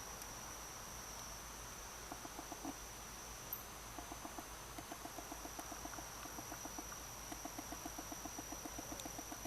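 Faint night-time animal sounds: a steady, high insect drone, joined from about two seconds in by long runs of short, rapidly repeated calls, about five or six a second.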